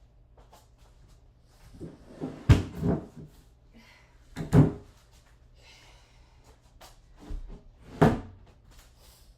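Handling knocks and thuds as plywood and tools are moved about: a few sharp wooden knocks, the loudest about two and a half, four and a half and eight seconds in. The saw is not running.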